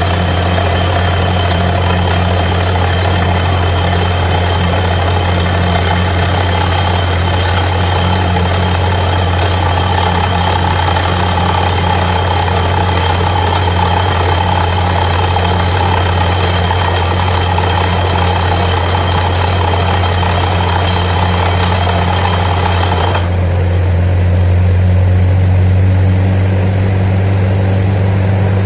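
Borewell drilling rig running: a steady deep engine hum under a loud hiss. Near the end the hiss drops away, leaving the engine hum.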